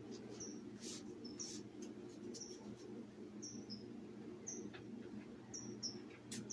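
Short high chirps, each falling slightly in pitch, repeat about once a second over a steady low hum.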